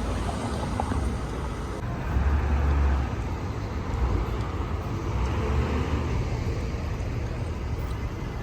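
City street ambience: road traffic running steadily, with a louder low rumble of a passing vehicle a couple of seconds in.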